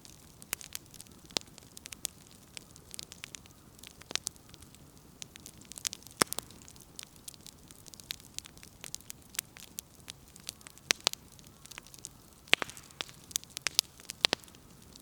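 Firewood crackling in an open wood fire: irregular sharp pops and snaps over a soft steady hiss, with the loudest pops about six seconds in and again a little after twelve seconds.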